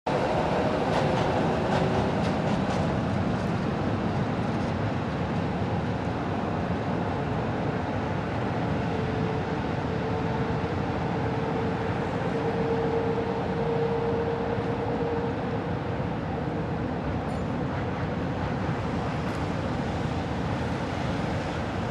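Tram rolling along rails: a steady rumble of wheels on track, with a whine holding for several seconds in the middle.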